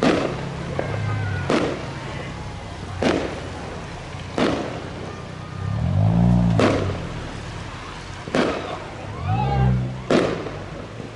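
Fireworks display: seven sharp shell bursts, about one every second and a half. Pitched sounds rise and fall twice between the bangs.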